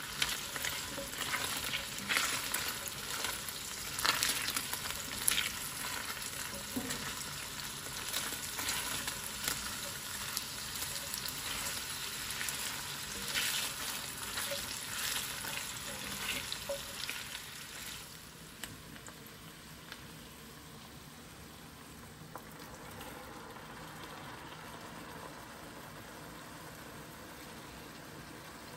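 Chopped meat, carrot and onion sizzling in oil in an enamelled pan while a silicone spatula stirs and scrapes them, with frequent scrapes and clicks. About two-thirds of the way in the stirring stops and only a softer, steady sizzle remains.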